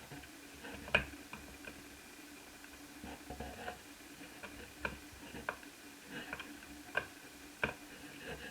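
Irregular small clicks and taps of laptop parts being handled during a teardown, the sharpest about a second in, near five and seven seconds, and once more shortly after. Under them runs a faint steady hum.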